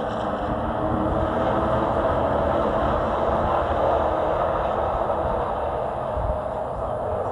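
Race truck's engine running hard at racing speed, heard from inside the cab: a steady drone with road and wind noise.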